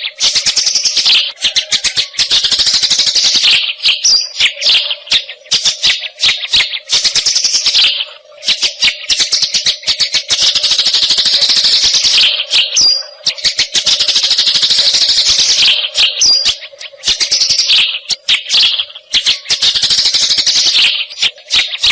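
Eurasian tree sparrow chattering: long runs of rapid, harsh chirps repeated almost without pause, broken by a few short gaps.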